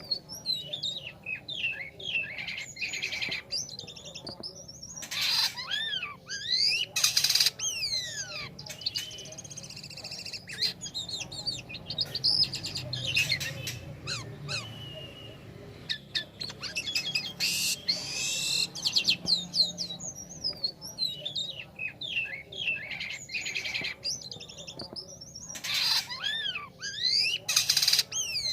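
Jalak kapas starling singing a long, varied song. It strings together rapid rising and falling whistles and chattering notes, broken by short harsh rasps, and some phrases recur through the song.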